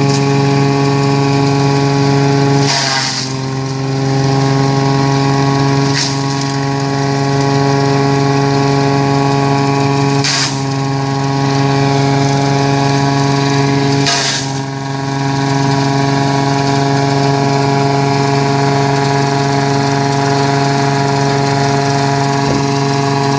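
Tractor-driven coconut leaf shredder running steadily, with a short burst of cutting noise every few seconds, about four times, as coconut fronds go through the cutter.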